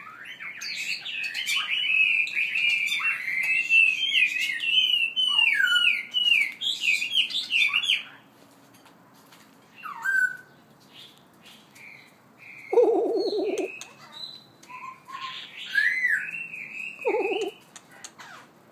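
A songbird singing a long, varied, warbling phrase of quick whistled notes for about eight seconds, then scattered short call notes and two brief low, buzzy notes near the middle and near the end.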